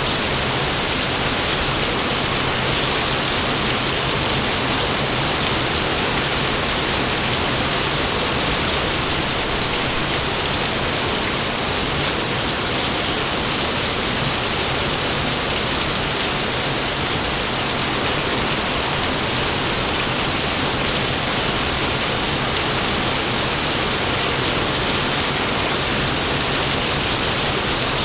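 Heavy rain falling in a steady, even downpour, a dense hiss with no thunderclaps.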